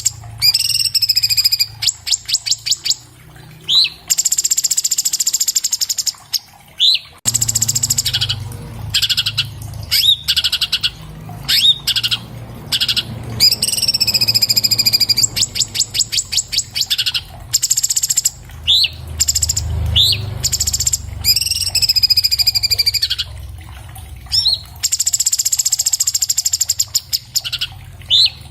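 Orange-bellied leafbird (cucak cungkok) singing a fast, varied song: short rising whistles, rapid trills and buzzy chattering phrases in quick succession, over a low steady hum.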